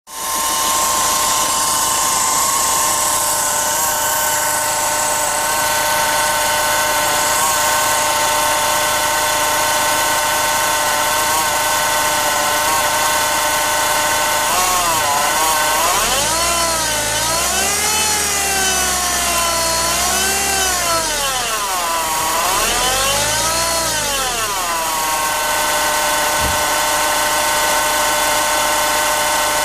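Renault Clio diesel engine running with a steady high-pitched whine. About halfway through, the whine's pitch rises and falls several times before settling again. It is an unidentified noise that the owner suspects may come from the accessory belt, alternator, turbo or air-conditioning.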